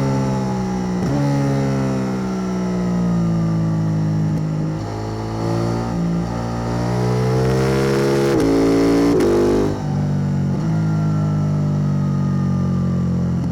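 KTM 890 Duke R's parallel-twin engine through a Spark Dyno double slip-on exhaust, running under varying throttle. The engine note sinks slowly, climbs for a few seconds, drops sharply about ten seconds in, then holds and eases down.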